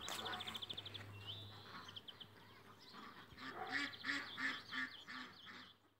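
A bird calling about seven times in quick succession, some three calls a second, near the end; before that, a fast high chirping trill and a short rising whistle.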